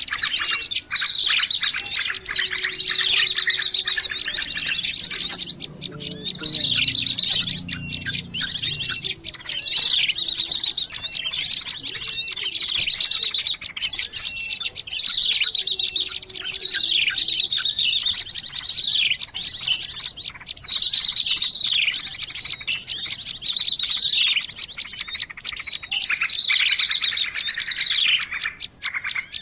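A dense chorus of small songbirds chirping and trilling without pause: a lure recording played to draw small birds in for trapping. The calls are high-pitched, with rapid trills and quick downward-sweeping notes overlapping one another.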